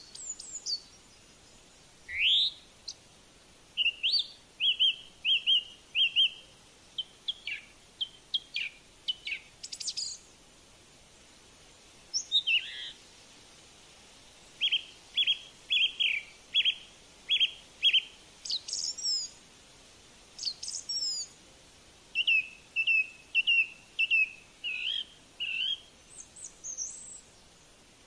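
Small birds calling: runs of short, sharp, high chirps at about two a second, broken by a few rising and quavering whistled notes.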